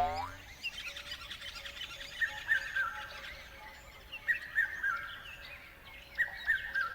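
Birds singing: a busy chorus of chirps and tweets, with one bird repeating a short whistled phrase about every two seconds. A brief rising swoop opens it.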